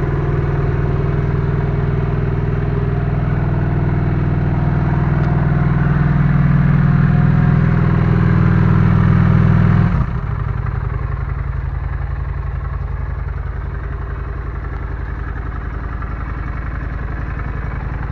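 Honda Shadow Spirit 750's stock V-twin engine running, held at raised revs that creep slowly up. About ten seconds in, the revs drop suddenly and it settles back to a steady idle.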